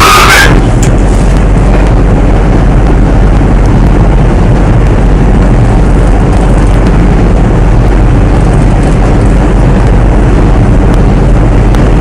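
Loud, steady low rumble of wind buffeting the microphone aboard a ship at sea.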